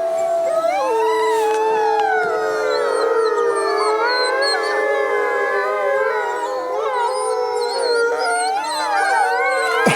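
A pack of arctic wolves howling in chorus: many overlapping howls, some held long and level, others sliding up and down in pitch.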